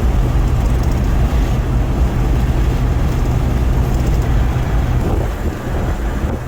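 Chevrolet Tahoe driving at road speed: a steady low engine and road rumble with tyre and wind noise.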